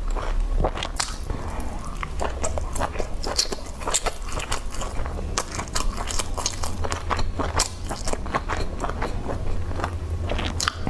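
Close-miked chewing and biting of grilled sausage pieces from a wooden skewer: a dense run of short wet mouth clicks and smacks.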